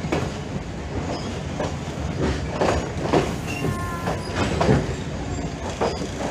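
Sri Lankan passenger train coach running on the track, heard from an open doorway: a steady low rumble with irregular clanks and knocks from the wheels and running gear.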